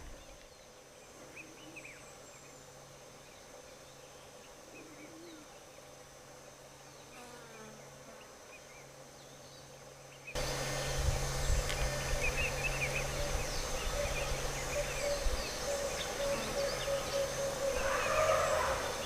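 Bush ambience of insects buzzing, with small birds chirping. It is faint for about the first ten seconds, then jumps louder at a cut, where a steady pulsing buzz and frequent chirps come through.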